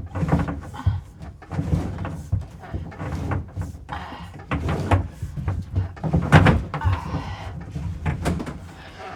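Blue PEX tubing being fed through the floor and wall framing: irregular knocks, clatter and scraping as the plastic pipe is pushed and rubs against the wood, loudest a little past the middle.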